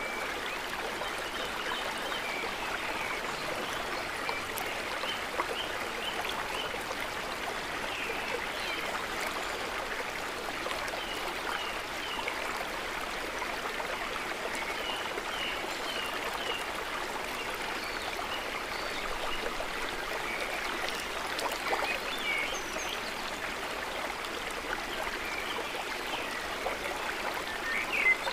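Gently trickling, babbling water, steady throughout, with short high-pitched ticks scattered over it and a few louder ones near the end.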